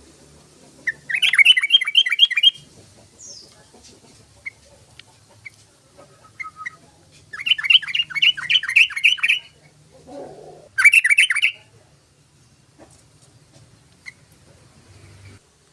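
Yellow-vented bulbul (trucukan) singing: three loud bursts of rapid, bubbling repeated notes, the middle one the longest, with a few short chirps in between.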